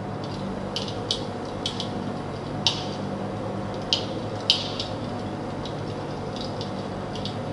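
Fire in a fireplace crackling, with irregular sharp pops over a steady low hum.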